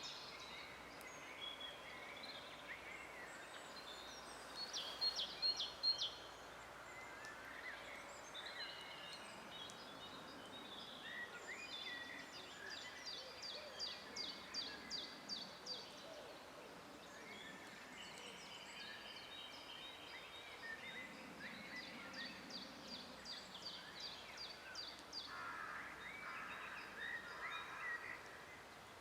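Several forest birds singing at once, overlapping chirps and rapid trills of repeated high notes, over a steady faint background hiss. The loudest phrase comes about five seconds in.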